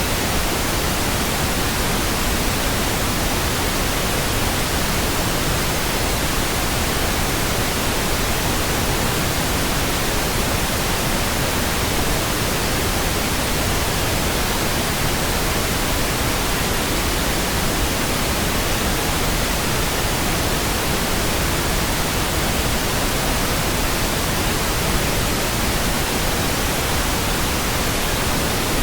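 Pink noise: a constant, even hiss with no changes or events.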